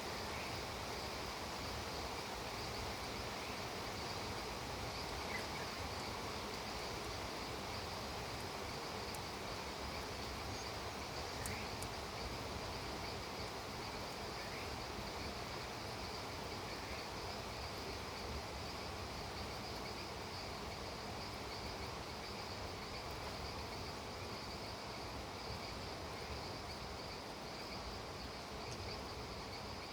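Steady rain falling, with insects trilling high and continuously behind it and a few faint chirps now and then.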